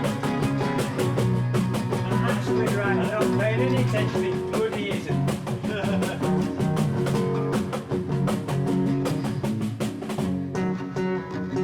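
Rock band jam: guitar and drum kit playing a steady driving groove, with a wavering lead line over the top. The drums drop out near the end, leaving the guitars.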